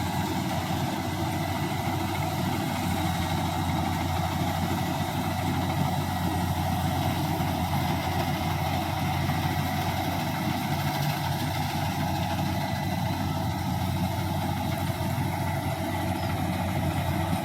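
Bimo Maxxi 102 combine harvester's engine running steadily, with a constant low drone and no change in speed.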